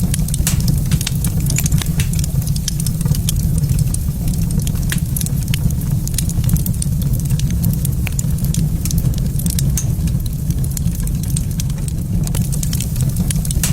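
Wood fire crackling in a fireplace, with many small sharp pops scattered through it, over a steady low rumble.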